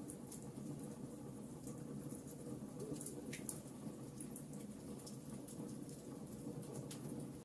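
Logs burning in a fireplace: irregular crackles and sharp pops over a steady low rumble of the flames.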